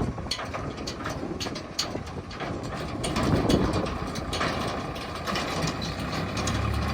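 Heavy diesel machinery engine running, with scattered sharp metal clanks and rattles throughout. The engine grows louder and deeper near the end.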